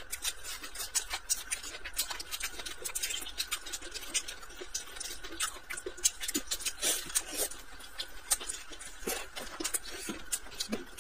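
A person chewing and eating: a rapid, irregular run of wet mouth clicks and smacks while chewing fried vermicelli and chives.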